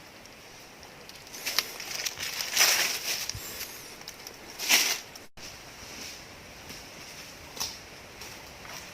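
Several short crunching, rustling noises, the loudest about two and a half and nearly five seconds in, over a steady high hiss.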